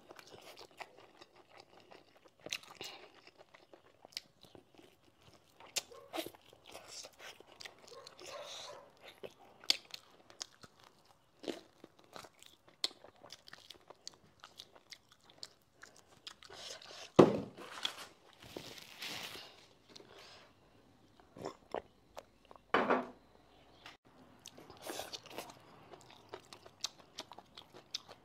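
A person chewing and biting braised chicken off the bone and rice, close to the microphone, with many small wet mouth clicks and light crunches. Two louder sharp sounds stand out in the second half.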